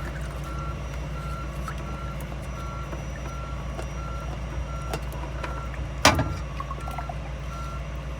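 A vehicle's reversing alarm beeping steadily about twice a second over a low, steady engine-like hum, with one sharp knock about six seconds in.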